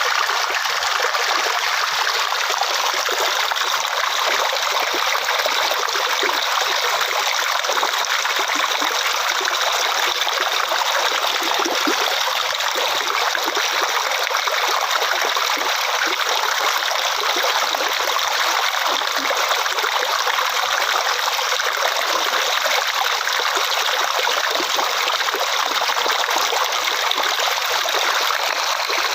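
Water flowing and trickling steadily, a constant rushing hiss with no breaks.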